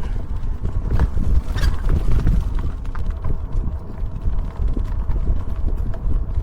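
A steady low rumble of wind buffeting the microphone, with scattered knocks and rattles, as from an e-bike riding over rough ground.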